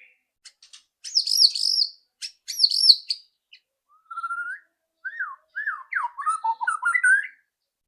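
White-rumped shama singing: a few short clicks, then two loud phrases of quick wavy high notes, followed by a run of lower sliding whistles.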